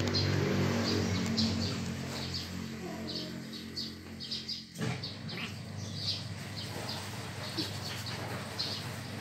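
Small birds chirping repeatedly in short high calls, over a low steady hum that cuts off about halfway through.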